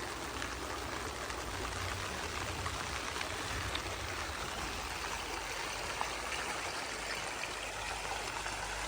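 The Gila River flowing, a steady rushing of water.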